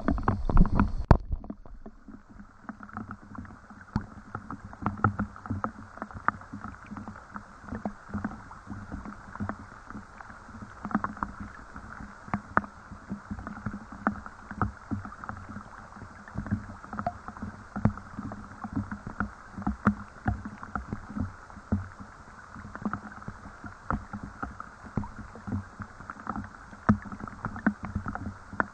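Rain falling: a steady run of irregular drops tapping and splashing. A louder, fuller sound in the first second stops abruptly.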